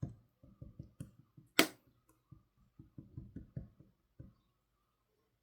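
Slime being pressed and squished by hand, giving a run of soft, low pops and squelches. One much louder, sharp crackling pop comes about one and a half seconds in.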